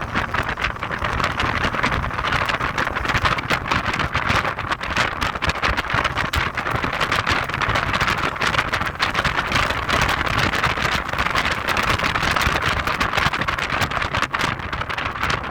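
Heavy, crackling wind buffeting on the microphone of a moving Audi TT 225 Quattro, with the car's road noise underneath, steady throughout.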